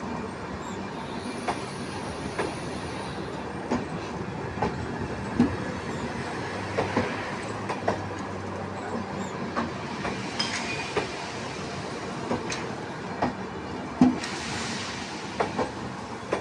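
Indian Railways train rolling at speed, its wheels clicking over rail joints at uneven intervals of about a second over a steady rumble, with a short high hiss near the end.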